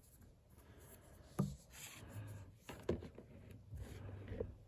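Quiet handling noise from a plastic portable monitor being turned over in the hands: light rubbing with a few soft taps and knocks.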